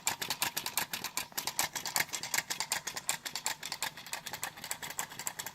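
Homemade gamma Stirling engine running on its heat source, its CD flywheel, crank and linkage clicking steadily at about ten clicks a second.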